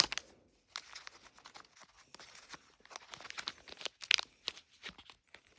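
Thin plastic wrapping being torn open and crinkled by hand, irregular crackles with a louder burst about four seconds in.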